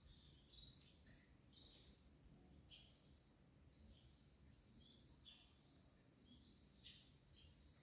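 Faint chirping of small birds, a scatter of short high calls that turns into a quick, steady run of chirps about halfway through, over a low room hum.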